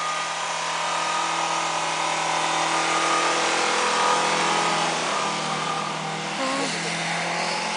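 Suzuki Vitara engine revving high and held at nearly steady revs while the 4x4's wheels spin in deep snow, over an even hiss of snow spraying from the tyres.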